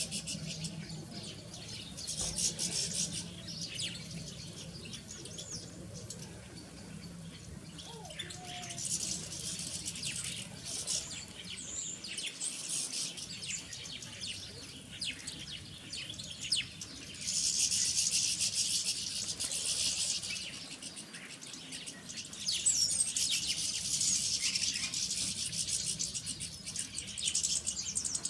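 Small garden songbirds twittering and chirping, in dense high-pitched bouts that swell and fade every few seconds.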